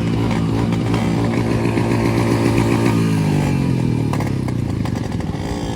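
Two-stroke Yamaha RX-series motorcycle engine running at steady revs. About three seconds in, its pitch falls as the revs drop, settling to a low, uneven idle near the end.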